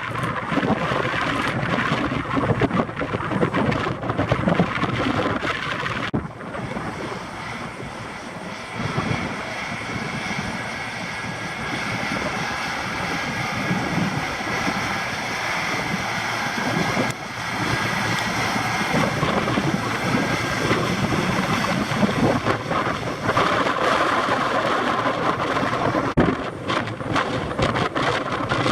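Airliner jet engine noise mixed with strong wind buffeting the microphone. The gusts come and go, and a steadier engine whine stands out in the middle stretch.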